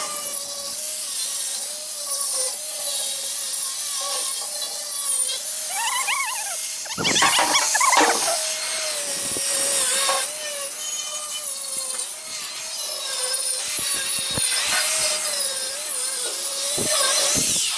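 Stick-welding arc from a 6011 rod burning across rusty, galvanized sheet metal: a continuous loud crackle and sizzle with a steady wavering whine underneath, surging a little about seven seconds in. It cuts off near the end as the arc is broken.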